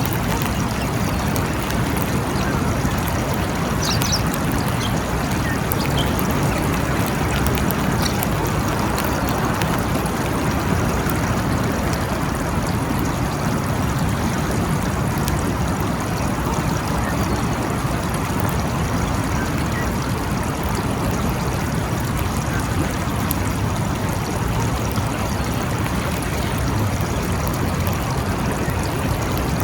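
Steady rain falling, an even, unbroken hiss of water with no thunderclap.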